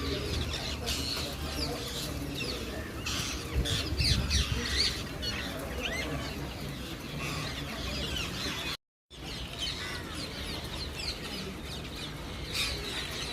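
Many parrots calling at once: a dense chorus of short, shrill, rising and falling screeches. A low rumble comes in around four seconds in, and the sound cuts out completely for a moment just before nine seconds.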